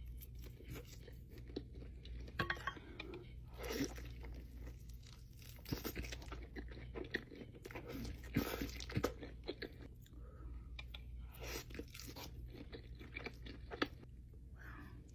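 Close-miked crunching and chewing of crispy fried chicken wings (Wingstop, original hot). Irregular sharp bites and crunches come every second or so, with a steady low hum underneath.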